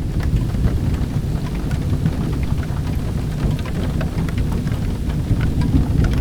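Steady rain with a deep, constant rumble, mixed with scattered sharp crackles from a wood fire in a fireplace.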